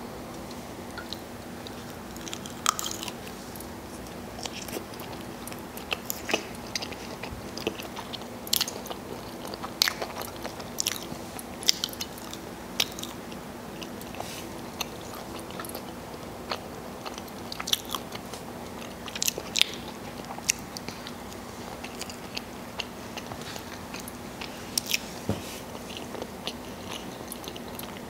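Close-miked chewing and biting of bacon cheese fries, with many short, crisp crunches and mouth clicks scattered throughout, over a faint steady hum.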